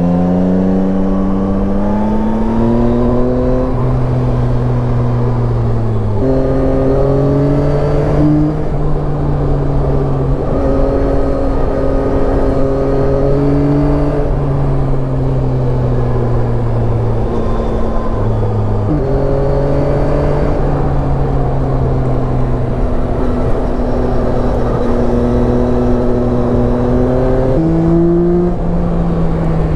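Yamaha Tracer 9's inline-three engine pulling along on the road, over steady wind rush. Its pitch drifts slowly and jumps abruptly a few times as gears are changed.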